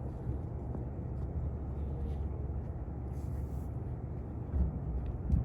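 Steady low outdoor background rumble, with a couple of brief louder low bumps near the end.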